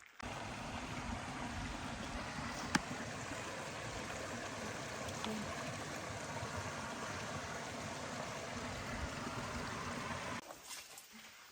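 Steady rush of flowing water from a mountain stream, with one sharp click about a quarter of the way in. The rush cuts off suddenly about a second before the end.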